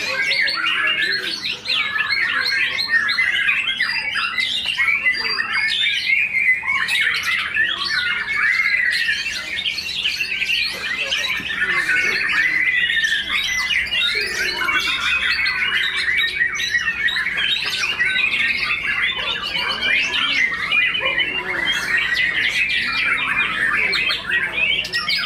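Several caged white-rumped shamas (murai batu) singing at once in a dense, unbroken tangle of rapid chirps, trills and harsh squawky notes.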